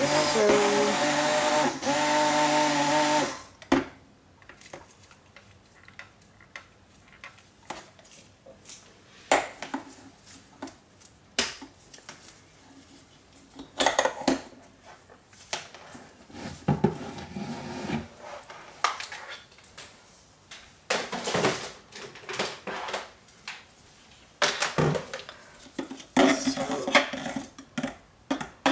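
Stick blender running in thick soap paste for about three seconds, in two bursts with a short break between, then a utensil knocking and scraping against the crock pot now and then, with a busier patch of clatter near the end.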